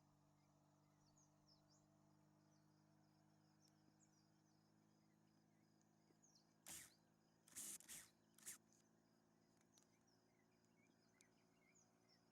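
Near silence: faint outdoor ambience with small high chirps, broken a little past the middle by three or four short bursts of noise, each under half a second.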